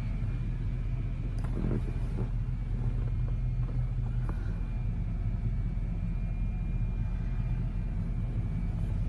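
Chevrolet 3500 work truck engine idling steadily, a low even rumble with a faint steady high whine over it.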